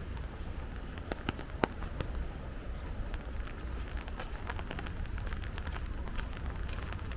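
Rain falling, with scattered sharp drops striking close by over a steady low rumble; one drop about a second and a half in is louder than the rest.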